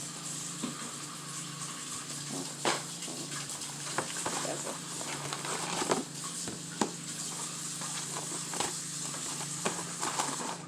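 Eating at the microphone: chewing fried chicken strips, with scattered small crisp clicks and crackles over a steady low hum and hiss.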